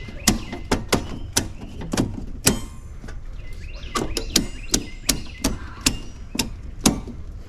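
Repeated hammer strikes, about two to three a second, with a short break near the middle.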